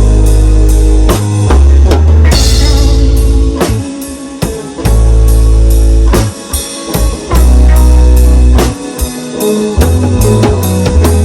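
Instrumental rock music: drum kit keeping a steady beat with electric guitar and bass, and no singing.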